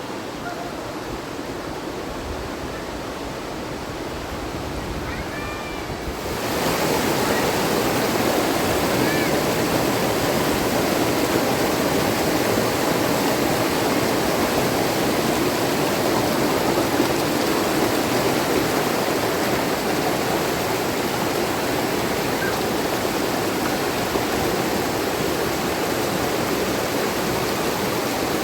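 Rushing river water, a steady hiss and roar. About six seconds in it turns suddenly louder and fuller, then stays steady.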